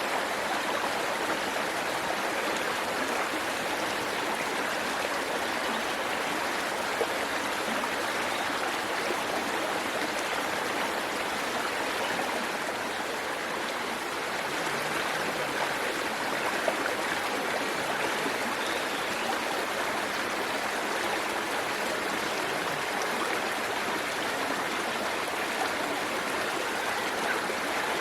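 Waterfall and stream water rushing and splashing steadily over rocks, an even continuous roar of falling water.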